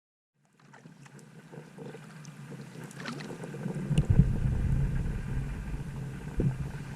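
Kayak on open water: paddle and water sounds against the hull, fading in from silence and growing louder, with a couple of dull knocks about four seconds and six and a half seconds in.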